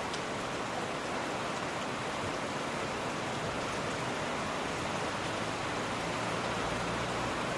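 Steady rain: an even hiss with no break.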